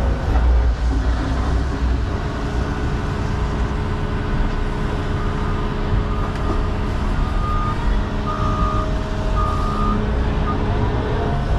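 John Deere 210 excavator's diesel engine running steadily under work, with a reversing alarm beeping several times from about six seconds in.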